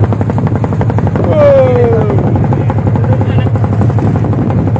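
An engine running steadily with a rapid, even pulsing beat. A person's drawn-out call, falling in pitch, rises over it about a second and a half in.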